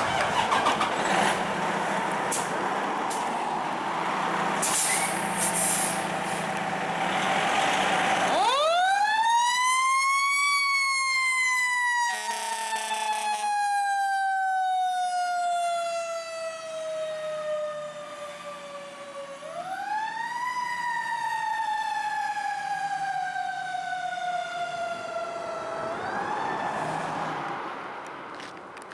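Fire apparatus pulling out on a response: heavy diesel engine noise at first, then a mechanical siren winds up twice, each time rising quickly and coasting slowly down in pitch. A short horn blast sounds about a third of the way through.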